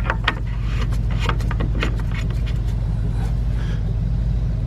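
An engine idling steadily with an even low throb, under a few light clicks and taps as a pressure-tester adapter is fitted onto the cooling system's filler neck.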